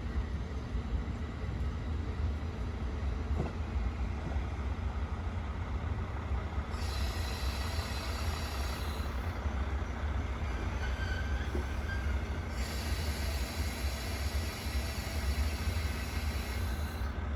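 Diesel train at a station: a steady low engine rumble, with high-pitched wheel squeal coming in twice, briefly about seven seconds in and again for several seconds from about twelve seconds in.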